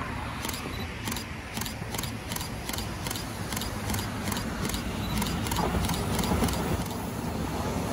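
Taiwan Railway electric commuter train approaching, its low rumble growing louder from about five seconds in. A rapid run of sharp high clicks, about three or four a second, goes on over it and fades near the end.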